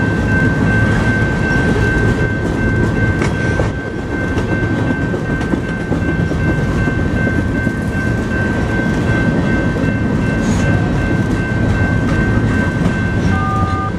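Loaded grain train of BNSF covered hopper cars rolling past, wheels clattering steadily over the rail joints, with a steady high tone running through it.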